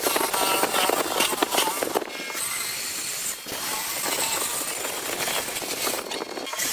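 Workshop sounds of wood being worked: a quick run of clicks and knocks for about two seconds, then a steady hiss of a machine or tool running.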